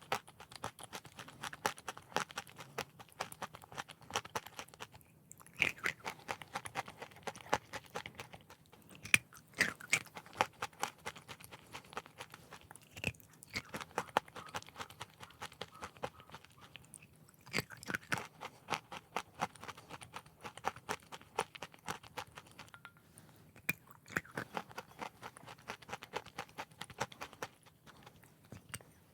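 Close-up crunching and chewing of edible chalk: dense crisp cracking as pieces are bitten and ground between the teeth, breaking off briefly every few seconds between mouthfuls.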